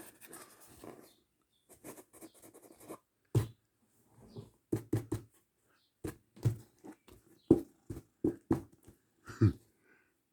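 A pet cat playing: irregular short taps and scuffles, a few louder knocks among them.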